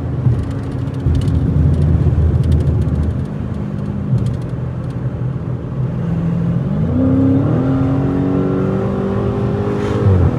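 Straight-piped Dodge Challenger Scat Pack's 6.4-litre HEMI V8 exhaust while driving: the engine note falls off over the first couple of seconds, climbs again about seven seconds in, holds at a higher pitch, and drops away just before the end.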